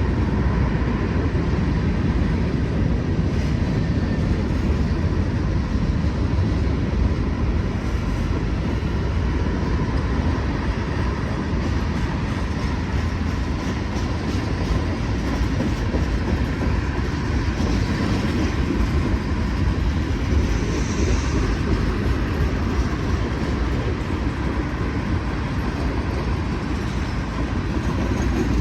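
Freight train cars rolling steadily past on steel wheels: a continuous low rumble and rail noise, with a faint steady ringing tone.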